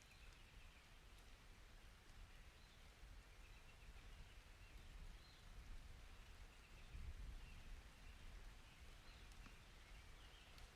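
Near silence: a faint low rumble, with faint wavering chirps now and then.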